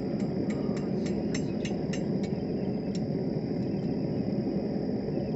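Hand hammer striking hot mild steel rod on an anvil, about ten quick blows at roughly three a second, with one last blow near the three-second mark, over the steady low roar of a propane gas forge burner.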